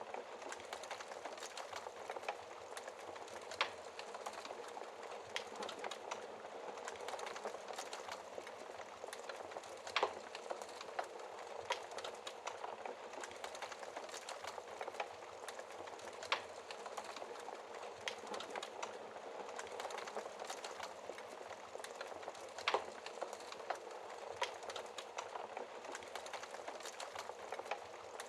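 Wood fire crackling in a fireplace: a steady stream of small crackles with a sharper pop every six seconds or so.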